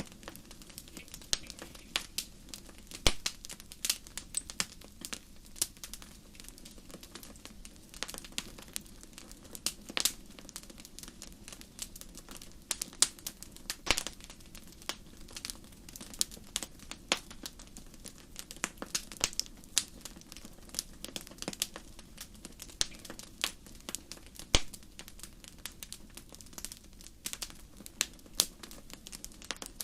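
Wood fire burning in a fireplace: frequent sharp, irregular crackles and pops over a faint low hiss of flame.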